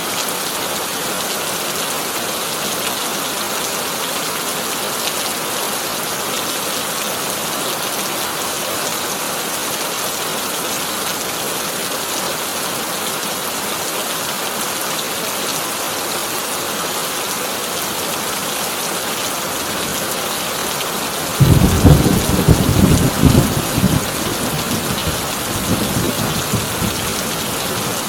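Heavy rain drumming steadily on a corrugated tin roof; about three quarters of the way through, a sudden loud crack and rumble of thunder breaks in and rolls on, fading toward the end.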